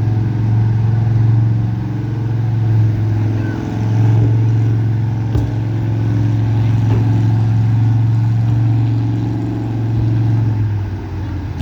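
Street-class gasoline pickup truck engine running hard under load as it pulls the sled, a steady loud drone that dips briefly a few seconds in and eases off near the end.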